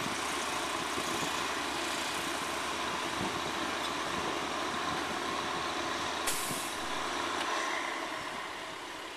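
Heavy truck engine running steadily, with a short sharp air hiss like an air brake releasing about six seconds in; the low engine hum drops away near the end.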